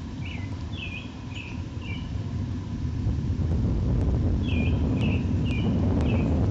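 Steady low rumble that grows louder about halfway through, with two runs of four short, high bird chirps over it, one near the start and one later.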